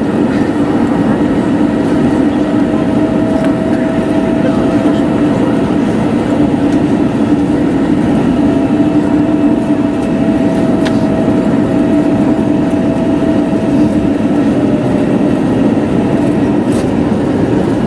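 Steady cabin noise inside an Airbus A321neo on the ground: engines at low thrust and the rumble of the wheels, with a steady low hum and a higher tone that comes in about two seconds in, drops out around six seconds, and returns from about eight to fourteen seconds.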